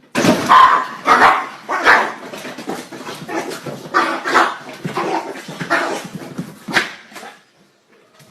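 A dog barking repeatedly in a run of loud, irregular barks, which stop about a second before the end.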